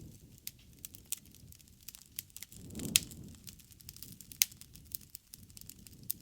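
Bonfire crackling, with irregular sharp pops over a low rustle. The loudest pop comes about three seconds in, with a brief low rush around it, and another sharp pop follows a second and a half later.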